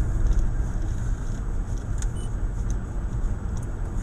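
Car driving, a steady low engine and road rumble as picked up by a dashboard camera.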